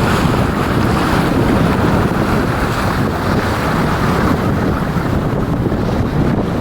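Steady wind buffeting the microphone over the rush of sea water around a sailing yacht under way.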